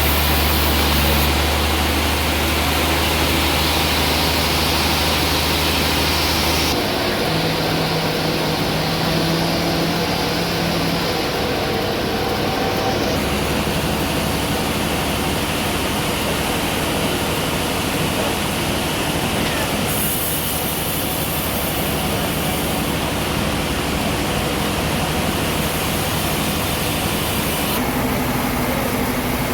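Sawmill running, its engine and saw making steady machine noise as a large trembesi (rain tree) log is sawn. The sound changes abruptly a few times.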